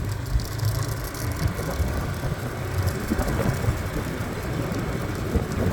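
Motorbike engine running steadily while riding a rough dirt track: a low rumble with uneven jolts and noise from the ride.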